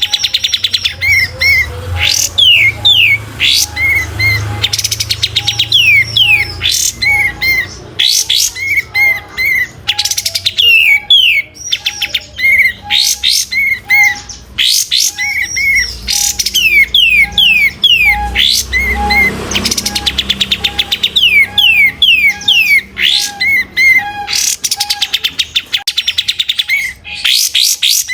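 Kapas tembak bird singing without pause: rapid runs of short, falling whistled chirps repeated over and over, a bird in full 'gacor' song.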